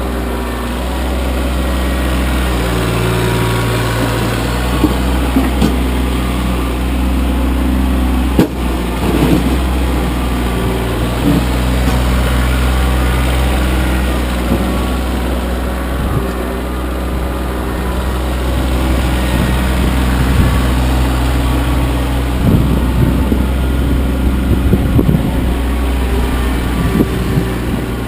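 Kioti CK25 compact tractor's diesel engine running steadily under work while plowing snow, its note shifting briefly a few seconds in. A sharp clunk comes about eight seconds in, and scattered knocks and rattles follow near the end.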